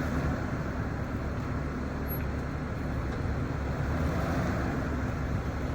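Engine of a Ford F-450 Super Duty truck idling steadily.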